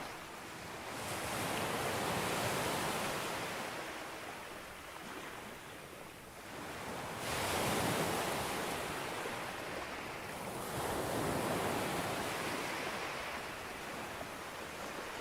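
Sea waves breaking on a beach, the wash of surf swelling and ebbing, with three louder surges as waves come in.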